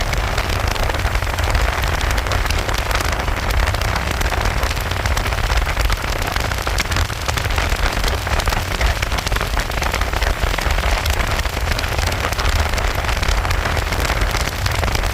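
Rain pattering and ticking on the camera, with a steady heavy low wind rumble.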